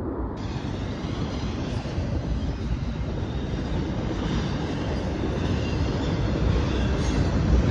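Double-stack intermodal container train rolling past, with a steady noise of wheels on the rails that grows slightly louder near the end.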